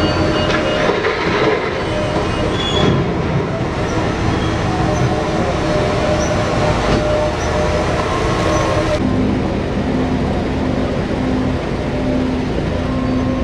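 Steady mechanical running noise of a large vehicle, with a few faint steady tones in it; the sound changes abruptly about nine seconds in.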